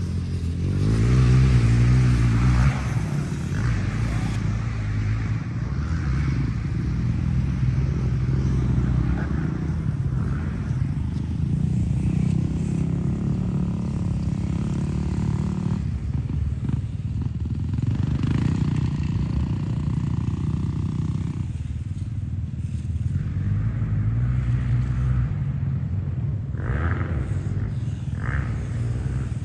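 KTM SX-E 5 electric mini dirt bike being ridden around a motocross track, its motor and drivetrain whirring and changing pitch as the rider speeds up and slows, over a steady low rumble.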